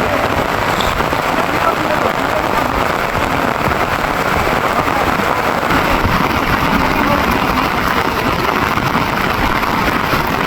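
Rain falling steadily and loud, an even hiss without letup.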